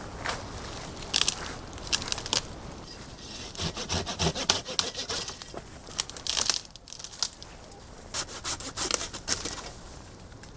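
Hand saw cutting through wood in quick back-and-forth strokes, with a brief pause about two thirds of the way in before the sawing resumes.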